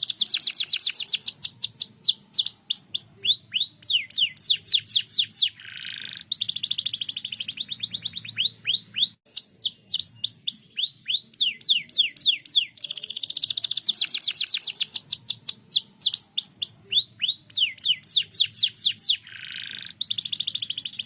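Canary singing fast trills of rapidly repeated downward-sweeping notes, broken by a short buzzy note about five and a half seconds in and again near the end. The same song phrase comes round again about halfway through, as in a looped lure recording played to set other canaries singing.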